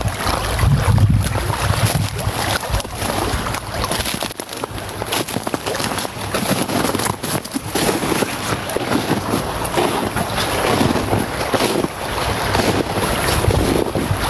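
Wind buffeting the microphone in gusts over a steady rushing of river rapids.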